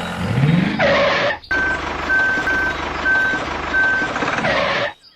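Vehicle running, with a rising whine over the first second, then a steady engine sound broken by about five short high-pitched beeps like a reversing alarm. It cuts off abruptly near the end.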